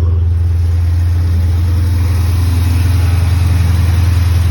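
American muscle car's engine idling steadily, shortly after a cold start, with a constant low hum. It runs smoothly with no knocking or other mechanical noise, and sounds healthy.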